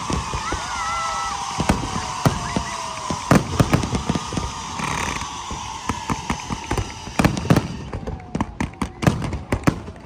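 Fireworks exploding in a string of sharp bangs. The bangs come thick and fast over the last couple of seconds.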